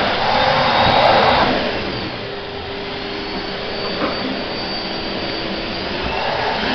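Vacuum cleaner running with a steady whooshing drone, louder for the first second and a half and again near the end, quieter in between.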